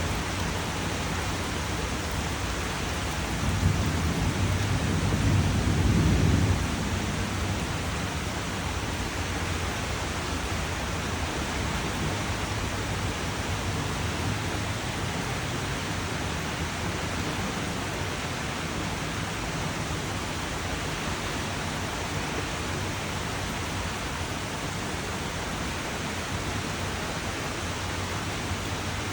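Steady rain falling, an even hiss throughout. A few seconds in, a low rumble of thunder swells for about three seconds and fades back into the rain.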